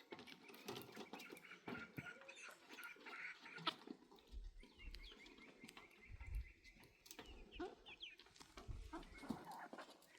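Faint bird calls, with scattered clicks and knocks and a low rumble through the middle.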